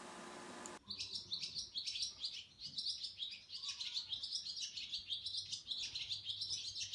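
Small songbirds chirping and twittering in a fast, continuous run of high notes, starting about a second in.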